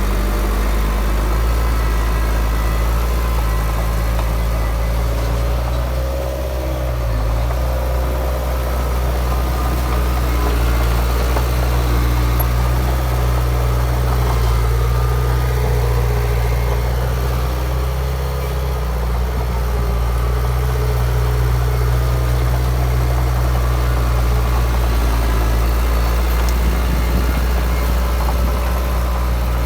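Heavy diesel engine of earthmoving machinery running steadily under working load, with brief dips in pitch about six seconds in and again near eighteen seconds.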